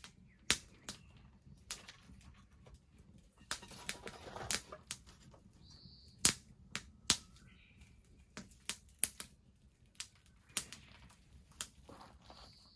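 Wood bonfire crackling, with irregular sharp pops and snaps from the burning wood and a brief hiss near the middle.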